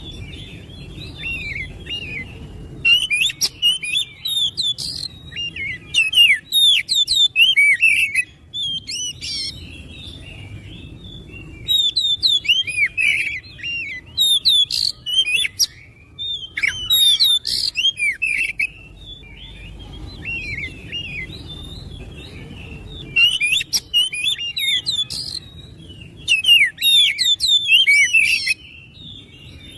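Oriental magpie-robin (kacer) singing: loud bursts of rapid, varied whistles and chirps, each a few seconds long, about six times, with softer warbling in the gaps.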